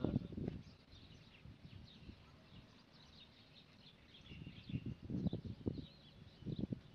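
Small birds chirping faintly throughout, with clusters of low thuds near the start and again about five and six and a half seconds in.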